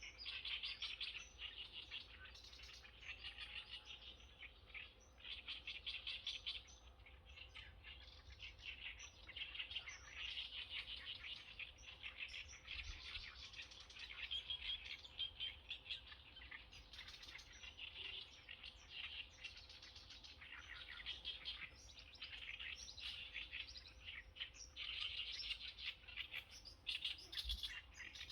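A chorus of many small birds chirping and twittering without a break, dense high chirps overlapping throughout.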